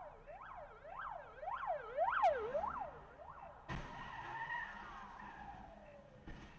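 Emergency-vehicle siren yelping, its pitch rising and falling about twice a second. After a sudden cut about halfway through, a siren tone slowly falls in pitch.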